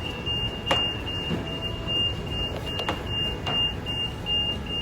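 Electronic beeper sounding a rapid, even series of short high beeps on one pitch, about three a second, over a steady low rush of noise with a few sharp clicks.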